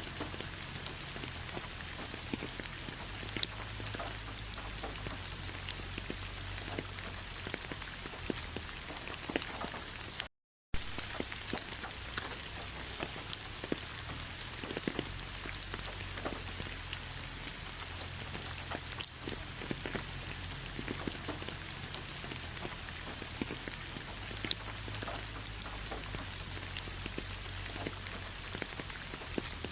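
Steady rain pattering on fallen leaves, many separate drops ticking over a soft hiss. The sound cuts out completely for about half a second around ten seconds in.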